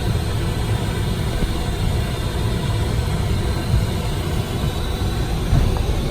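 Dassault Falcon 50 business jet idling on the ground, heard from the cockpit: a steady low rumble with faint steady whine tones above it.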